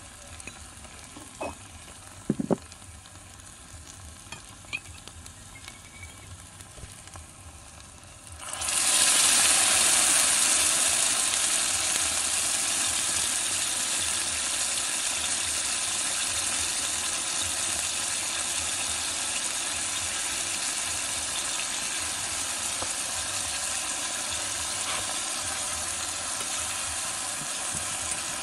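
Small metal spatula clicking and scraping in a miniature iron wok of frying eggplant and meatballs. About eight seconds in, a loud sizzle starts suddenly, as sauce hits the hot pan. It then settles into a steady, slightly fading sizzle while the food is stirred.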